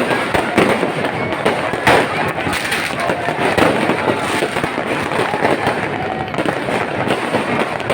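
Fireworks display going off, a continuous run of bangs and crackles, the sharpest bangs about half a second and two seconds in.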